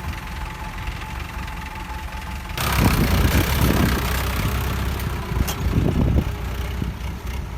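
Sonalika 60 tractor's diesel engine running, turning sharply louder and rougher about two and a half seconds in.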